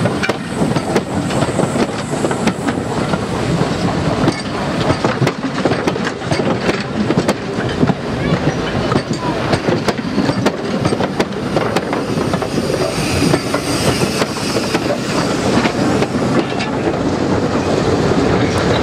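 Railway passenger coaches rolling past close by: a steady rumble of wheels on rail with many sharp clacks as the wheels cross rail joints.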